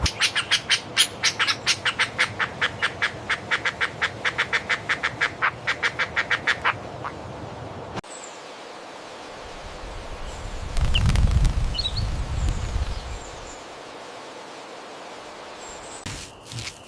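Animal calls: a fast run of sharp, repeated quack-like calls, about five a second, that stops about seven seconds in. After a sudden cut comes a deep, low rumbling sound that swells and fades over several seconds.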